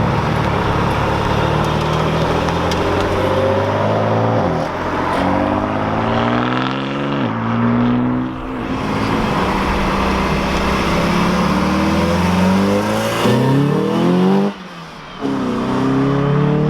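Car engine revving, its pitch climbing and then falling back several times, with a short dip in loudness near the end.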